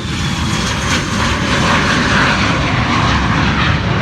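Dassault Falcon business jet's turbofan engines at takeoff power as it lifts off and climbs away: a loud, steady jet roar that swells toward the middle, with a high whine falling in pitch and fading in the first second.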